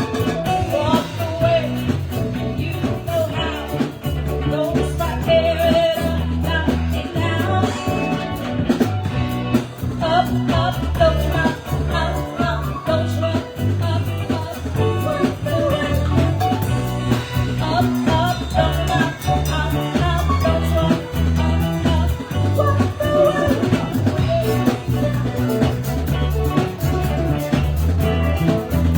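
A live band playing a song, with singing over drums and guitar.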